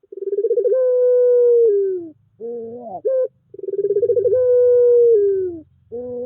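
Puter pelung turtle dove cooing: two long drawn coos, each opening with a quick flutter, held at a steady pitch and then dropping at the end, with short rising calls between them.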